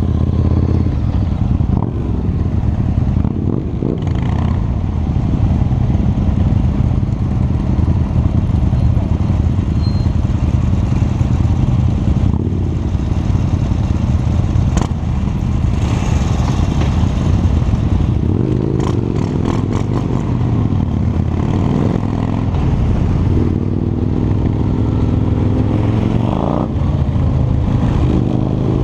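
Harley-Davidson V-twin motorcycle engine running while riding, its pitch rising and falling several times as it speeds up and eases off. A few short clicks and rattles come around the middle.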